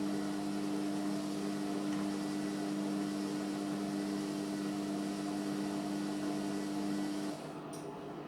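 Indesit MyTime washing machine giving off a steady electric hum over a soft hiss, which cuts off about seven seconds in, followed by a faint click.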